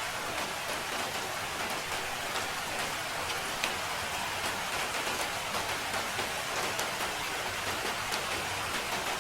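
Steady rain falling, with a dense hiss and many small drop ticks landing on a surface.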